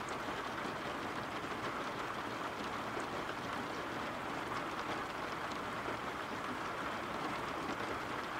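Steady rainfall, an even hiss with a few faint scattered drop ticks.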